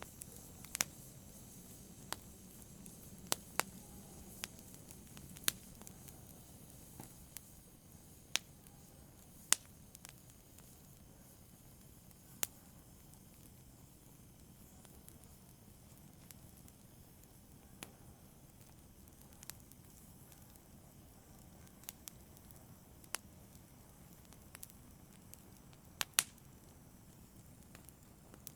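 Fire in a brazier crackling: irregular sharp pops, one every second or two, over a faint low hiss.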